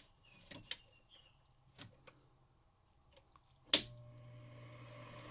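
Window air conditioner's control knob clicking as it is turned, then a sharp switch click about three and a half seconds in as the fan motor starts with a hum and the blower begins spinning up, getting louder.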